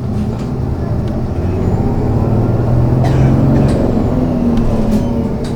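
City bus under way, heard inside the cabin: the engine pulls as the bus gathers speed and is loudest a little past the middle before easing off. A few light rattles and clicks come from the body.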